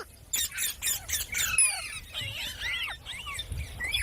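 Pet parrots chattering and squawking: a quick run of sharp clicks and short calls, then calls that swoop up and down in pitch, sometimes overlapping.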